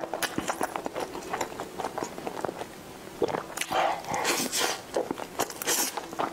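Close-miked mouth sounds of eating a soft, creamy dessert from a spoon: wet smacking and lip clicks, getting louder and denser about three and a half seconds in as a fresh spoonful goes into the mouth and is chewed.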